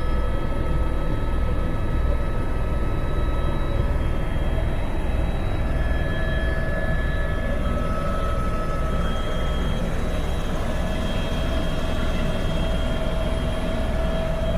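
Helicopter in flight: a steady, loud mix of rotor and engine noise, heavy in the low end, with a few steady whining tones above it.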